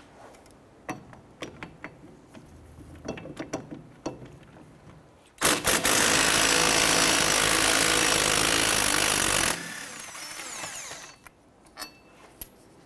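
A few metallic clicks of a socket and ratchet on a wheel hub bolt, then a power ratchet runs steadily for about four seconds, backing out a 14 mm hub mounting bolt, and runs more quietly for a second or so before stopping.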